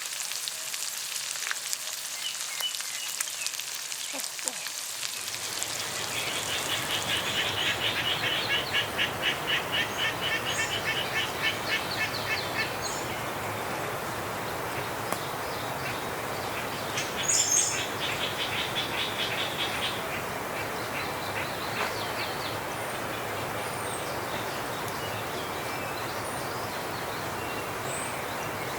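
Food sizzling faintly for the first few seconds, then a cut to steady outdoor noise of wind in the forest. Over the wind an animal calls in rapid, evenly repeated chirps for several seconds, twice.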